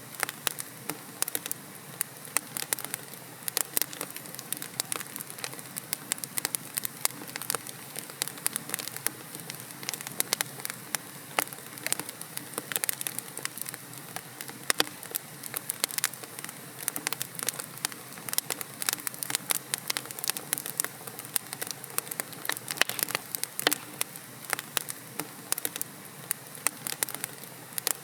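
Wood fire in a fireplace crackling: burning logs give off frequent sharp pops and snaps over a steady soft hiss.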